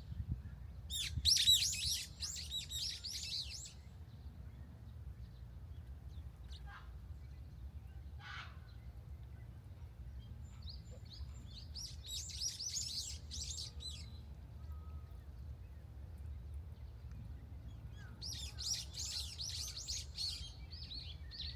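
Small songbirds twittering in three quick, high bursts of chirps about two seconds each, over a low steady background rumble.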